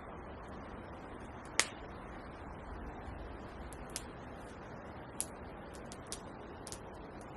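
Campfire crackling: sharp, irregular pops over a steady hiss, the loudest pop about one and a half seconds in.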